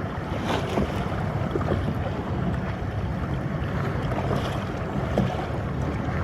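Choppy water splashing and sloshing around a kayak as it paddles through the chop, with wind noise on the microphone.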